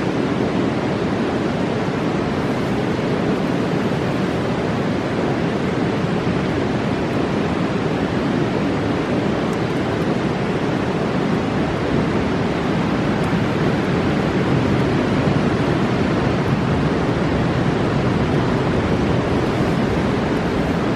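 A fast mountain river running steadily: the even roar of rushing water.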